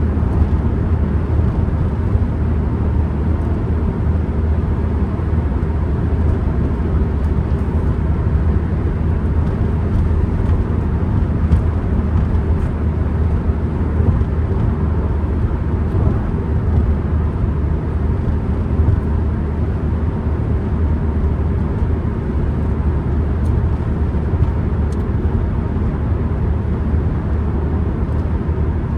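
Cabin noise of a Ford Transit Connect van being driven: a steady low rumble of engine and road noise.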